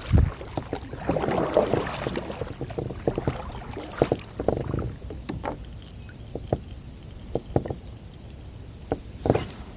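Irregular knocks and clunks on a kayak with water sloshing against the hull, busier in the first half and sparser later, with a few sharper knocks near the end.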